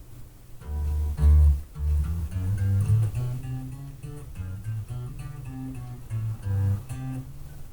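Freshly re-strung five-string electric bass guitar played as a finger warm-up exercise: a run of single plucked low notes, one after another.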